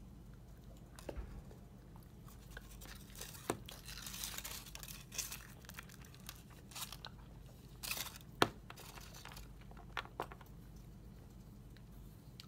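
Faint crinkling and rustling of a wrapper while a chocolate egg and its packaging are handled, with scattered light clicks and taps; the sharpest click comes a little past the middle.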